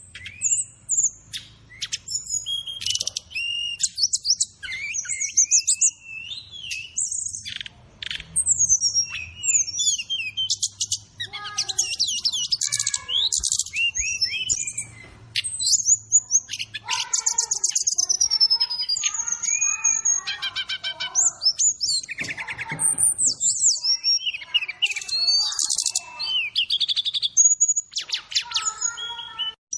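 Brown-chested jungle flycatcher (SRDC) tutor-recording song mixed with fill-in birdcalls: a continuous, varied run of clear whistles, slurred chirps and fast trills with short gaps between phrases.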